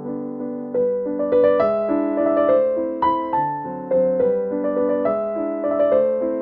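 Background music: a gentle piano melody over chords, each note struck and then fading.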